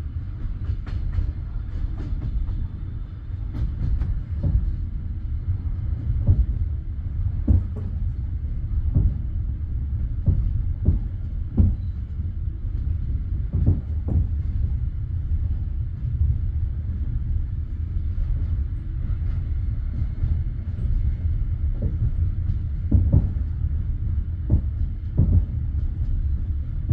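Passenger train carriage wheels knocking over rail joints: sharp clicks at uneven intervals, sometimes in quick pairs or triples, over a steady low rumble.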